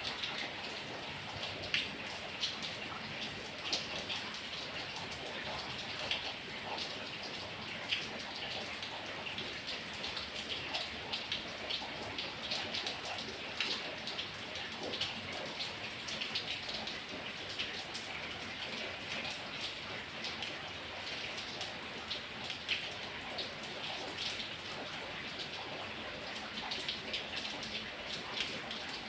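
Heavy rain falling steadily, with many individual drops splattering close by.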